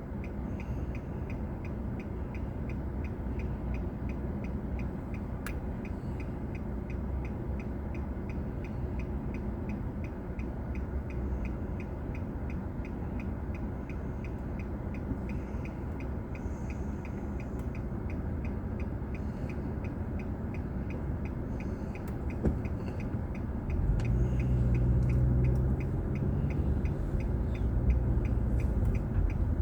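Car driving on a city road, heard from inside the cabin through a dashcam: a steady low rumble of engine and tyre noise. It grows louder and deeper about 24 seconds in, as the car speeds up.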